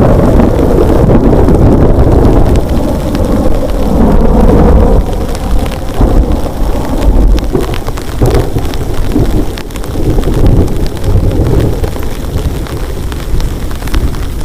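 Heavy rain falling steadily with a long roll of thunder rumbling low underneath, loudest for the first few seconds and then easing into uneven swells.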